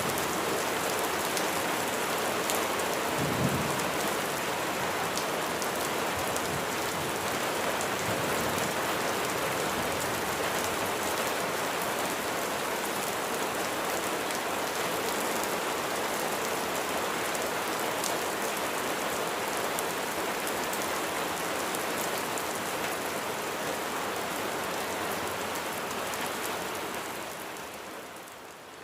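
Steady heavy rain falling, with a brief low thump about three seconds in. The rain fades down near the end.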